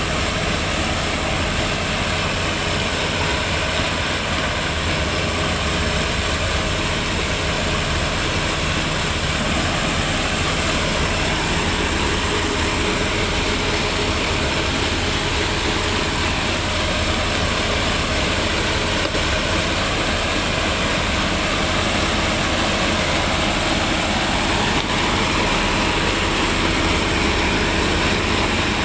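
Farm tractor's diesel engine running steadily under way, a continuous even drone.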